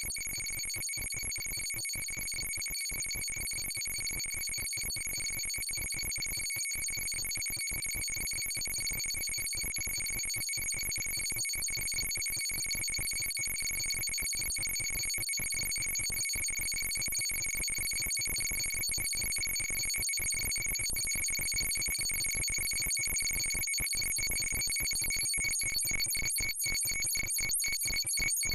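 Steady high electronic tone, alarm-like, with a rapid stuttering flutter through it, slowly growing louder; the flutter quickens near the end.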